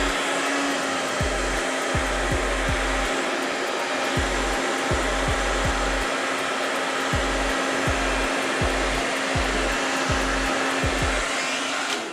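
Handheld hot-air blower running steadily with a constant whooshing hiss and a hum, heating old sticker glue on a bike frame to soften it. It cuts off at the end.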